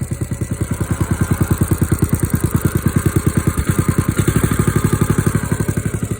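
Small engine running steadily with an even, low pulse of about a dozen firing beats a second, getting a little louder about a second in and again past the middle as it works pushing snow.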